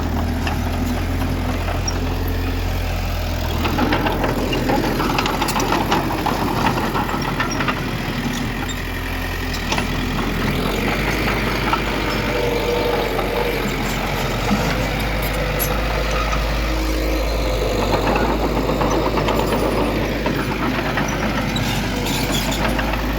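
Diesel engine of heavy earthmoving machinery running steadily, its low note shifting a few times, with scattered sharp clicks and knocks.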